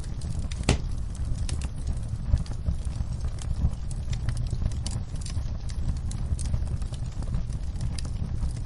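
Wood fire crackling in a fireplace: scattered sharp pops over a steady low rumble, with one louder pop just under a second in.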